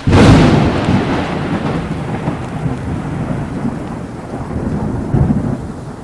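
Thunderstorm: a sudden loud thunderclap, then a long rolling rumble fading slowly, with rain.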